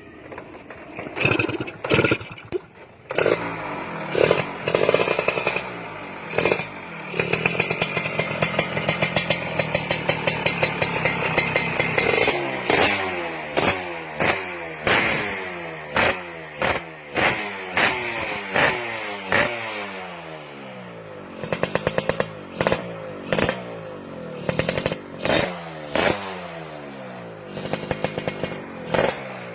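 Yamaha F1ZR two-stroke single-cylinder engine revved hard through a loud, crisp-sounding modified exhaust. After a few blips it is held at high revs for several seconds, then blipped again and again, about once a second, the revs falling back after each.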